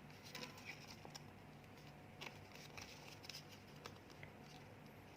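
Faint rustling and crinkling of origami paper as it is pressed and creased into a reverse fold, with scattered small ticks.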